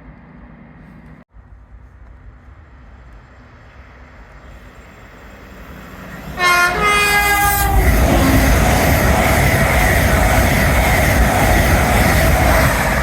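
Train horn sounding one blast of about a second and a half as a train approaches, then the train passing the platform at speed with a loud rush of wheel and rail noise.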